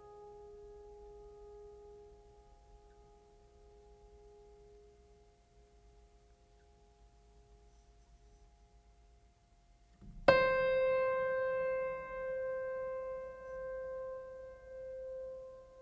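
Soft background music: held notes fade away, then about ten seconds in a single bell-like note is struck loudly and rings on, its level wavering as it sustains.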